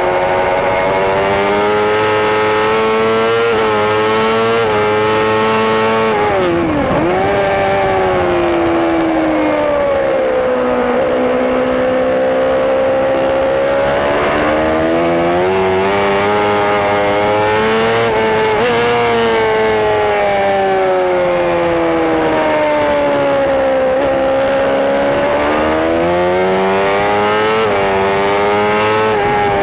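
Racing superbike engine heard on board at race pace, its revs climbing and falling continuously. There are brief dips at gear changes, and a sharp drop about seven seconds in where it slows hard into a corner.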